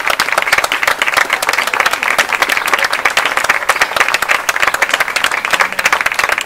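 Small audience applauding: many hands clapping in a dense, steady patter.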